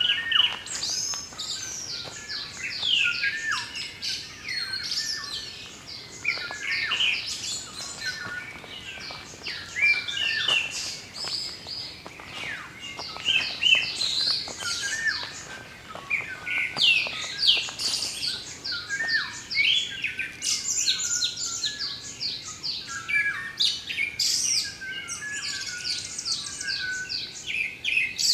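Several wild birds singing and calling at once: a dense chorus of quick, high chirps and short falling trills overlapping throughout.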